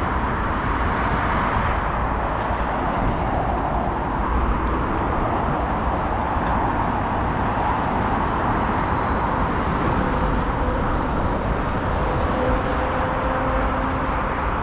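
Steady road traffic noise, a continuous even roar of passing vehicles.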